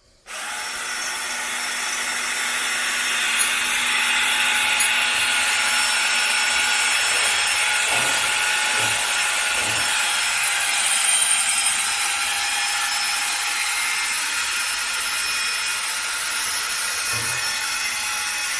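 Power drill boring into a metal tab on an old cast-iron skylight frame. It starts about half a second in and runs steadily and unbroken, with a steady motor whine over the grind of the bit.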